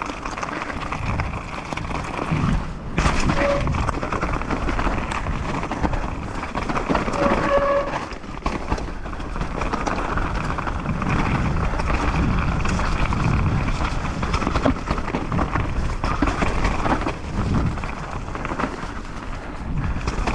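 Mountain bike descending a rough dirt trail: continuous rattle and rumble of tyres, frame and chain over roots and rocks, with wind on the microphone. A couple of short squeals about three and a half and seven and a half seconds in.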